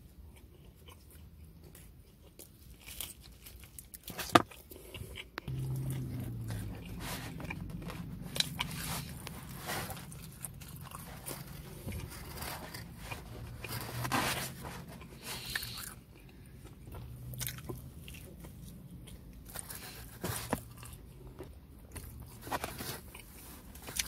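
A person chewing and biting into pepperoni pizza close to the microphone, with wet chewing and crunching of the crust. A sharp click comes about four seconds in.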